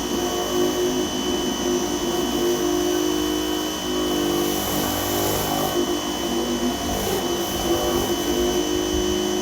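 Dewalt 2100 PSI electric pressure washer running steadily, its motor and pump humming with a steady high whine over the hiss of the water jet.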